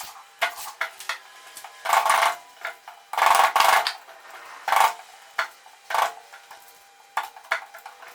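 Hand tools working wood: a series of short scraping strokes, the longest about half a second, with light clicks and taps between them.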